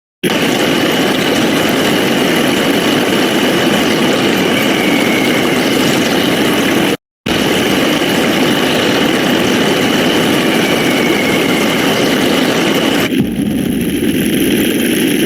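Loud, harsh, distorted noise sound effect playing continuously, broken by a brief silence about seven seconds in and turning thinner and less full near the end.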